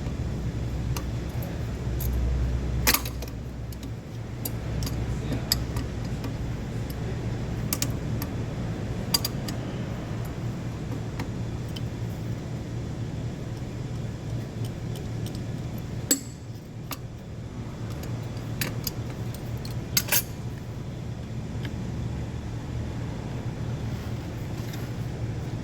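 Scattered metallic clinks and clanks of hand tools and loose parts while a car engine is being taken apart, about eight sharp knocks spread out over a steady low hum.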